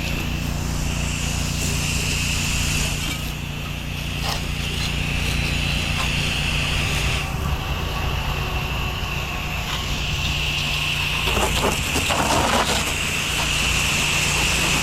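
Pressure washer running steadily, its engine humming under the hiss of the spray jet; the spray eases off briefly a couple of times, and there is some clatter about two-thirds of the way through.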